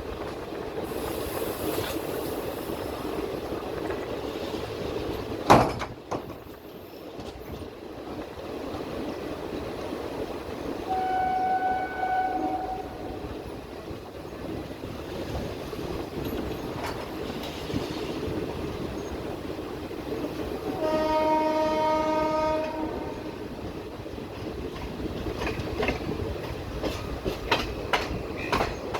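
Indian Railways train rumbling steadily with some clickety-clack, and two horn blasts of different pitch: a higher one about 11 seconds in and a lower, fuller one about 21 seconds in. A single sharp crack sounds about five seconds in, and there are light clicks near the end.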